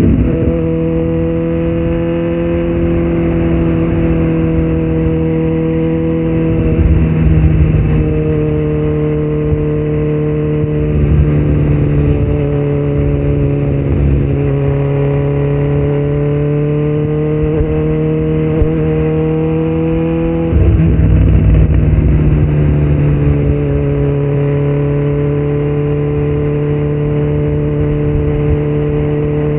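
A 2018 Kawasaki Z900's inline-four engine running through a Yoshimura muffler and Delkevic headers with no dB killer, under way. The engine note climbs slowly and drops back several times as the throttle and gears change, and it gets louder about two-thirds of the way through.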